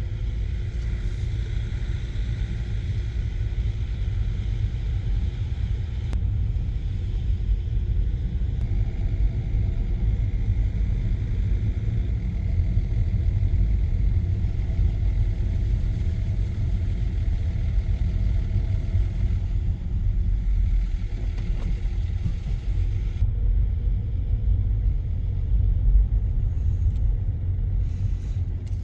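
Steady low rumble of a Range Rover L322 with its BMW M57 diesel running. The fainter higher hiss over it drops away about three quarters of the way through.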